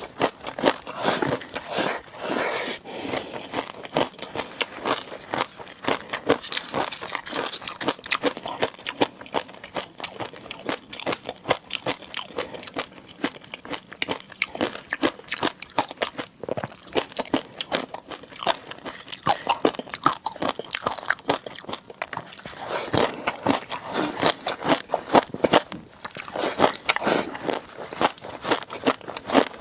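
Close-miked eating: a person chewing and biting seafood, with a dense run of wet clicks, smacks and crunches, busiest near the start and again in the last several seconds.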